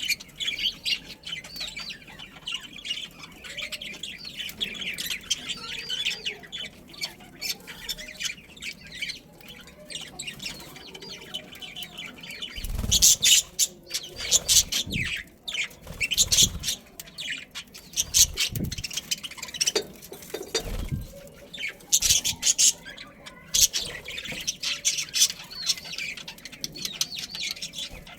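A flock of budgerigars chattering continuously in fast, warbling chirps and squawks. Several short low thumps or flutters break in around the middle.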